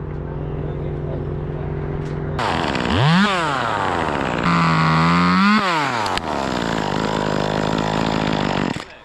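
Small two-stroke chainsaw idling, revved up and back down, then held at high speed for about a second before dropping to idle again. The engine cuts off near the end.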